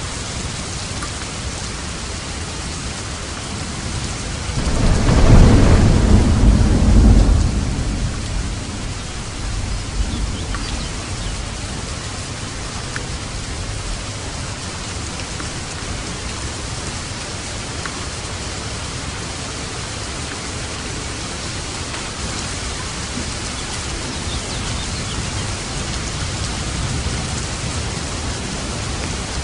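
Steady heavy rain, with a roll of thunder swelling loudly about five seconds in and fading over a few seconds, then a fainter rumble shortly after.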